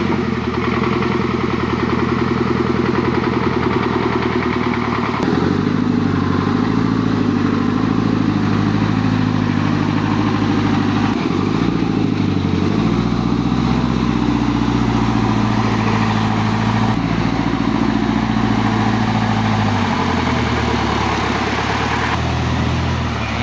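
A GAZ-66 off-road truck's engine running under load, its pitch stepping up and down several times as the revs change.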